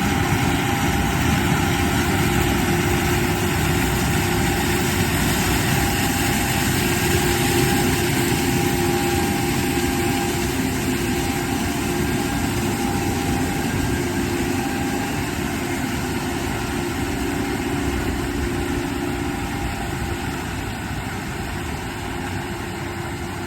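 Case IH AF10 Axial-Flow combine running steadily while harvesting corn and unloading grain on the go: a continuous engine and machinery drone with steady humming tones, easing slightly quieter near the end.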